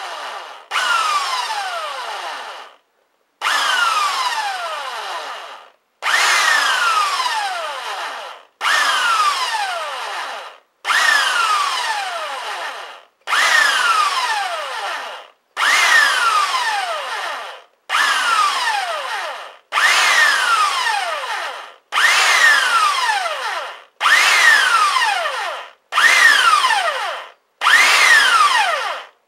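An electric drill with an 8 mm bit boring through the metal end plate of a Yamaha Dragstar 650 exhaust silencer. It runs in about a dozen short bursts of roughly two seconds each, and its pitch falls through each burst. The drill is worked in little bits to keep the bit cool.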